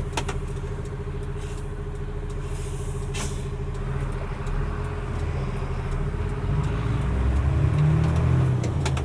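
Mercedes-Benz Unimog U500's turbo diesel engine running through a slow turn, with a steady whine over it and a brief hiss about three seconds in. Near the end the engine gets louder as the truck pulls away.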